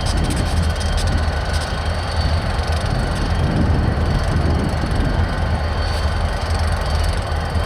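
Freight train on the move: a steady low rumble of rolling cars, with faint thin high tones over it.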